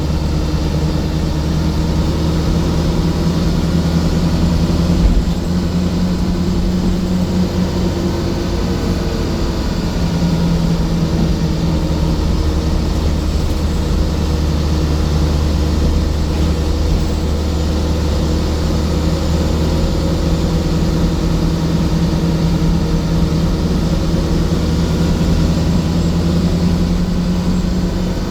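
Scania coach's diesel engine running steadily at a constant pitch, with a short change in its note about ten seconds in.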